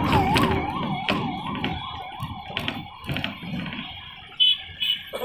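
An emergency vehicle's electronic siren wailing, its pitch sweeping up and down about twice a second, fading away over the first two seconds. A few clicks and knocks follow, with a sharper one about four seconds in.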